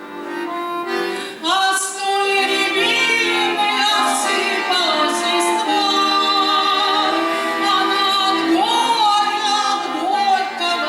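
A woman singing a song with instrumental accompaniment, holding long notes with slides between pitches.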